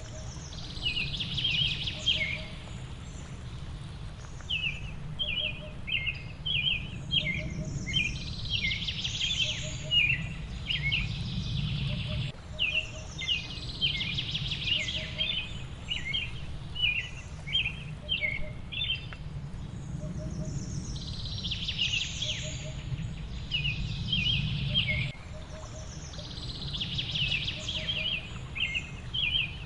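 Several small songbirds chirping in rapid clusters of short, high notes over a steady low rush. A faint soft note repeats about every second and a half beneath them.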